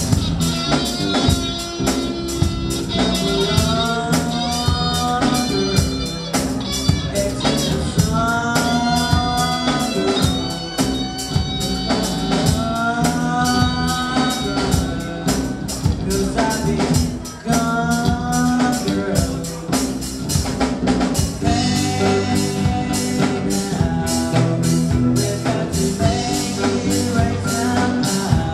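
Live rock band playing with a singer: sung lines that slide in pitch over a steady drum beat and a low bass line.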